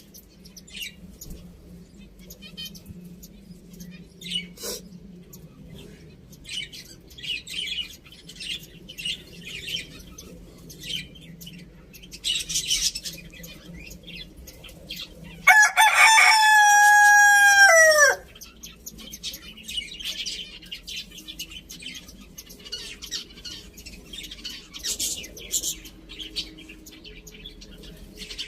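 A rooster crows once, a single call of about two and a half seconds about halfway through that drops in pitch at the end. Short, high bird chirps come and go throughout over a faint steady low hum.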